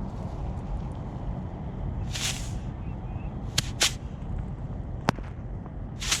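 Small fireworks popping: a short hiss about two seconds in, then a handful of sharp cracks over the second half, against a steady low rumble of wind on the microphone.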